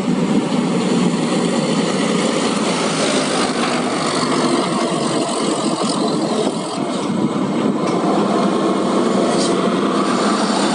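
Heavy haul truck's diesel engine running steadily.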